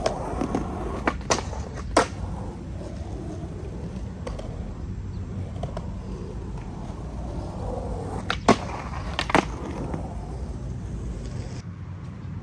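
Skateboard on mixed Thunder and Independent trucks rolling with a steady wheel rumble, broken by several sharp clacks of the board and trucks hitting, the loudest about two seconds in and about eight and a half seconds in.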